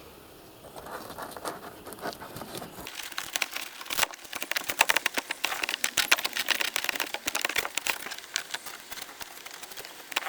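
Crinkling and rustling of material being handled, starting faintly and turning into dense, loud crackling about three seconds in.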